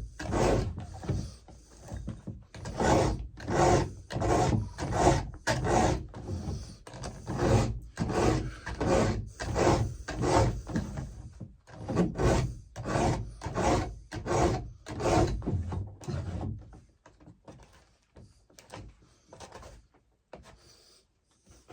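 Chainsaw chain teeth being hand-filed: a steady run of rasping file strokes, about two a second, which stops about 16 seconds in and is followed by faint handling sounds.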